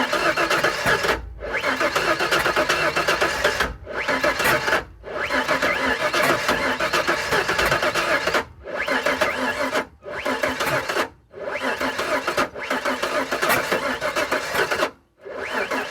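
1998 Ford Ranger's starter cranking the engine in a run of attempts, each lasting one to three seconds with short pauses between, and the engine never catches. This is a no-start condition.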